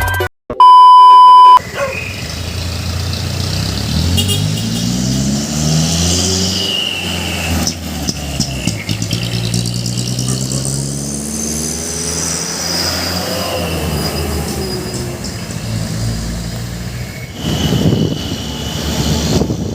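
A loud steady beep of about a second, then a truck engine revving up and down under load, its pitch rising and falling over several seconds, growing louder and rougher near the end.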